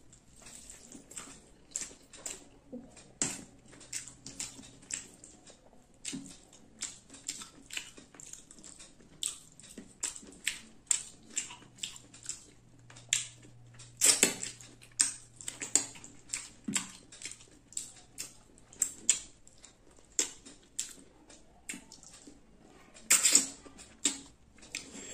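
Close-miked eating sounds: wet chewing and lip smacking on mouthfuls of rice and chicken curry eaten by hand, an irregular run of sharp mouth clicks and smacks. A couple of louder bursts come about halfway through and again near the end.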